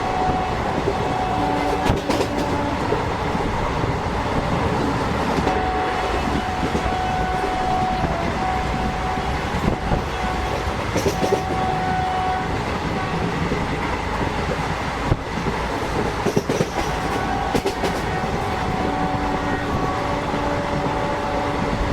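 Indian Railways local passenger coach running along the line, heard from inside the coach: a steady rumble of wheels on rail with occasional sharp clacks at uneven intervals.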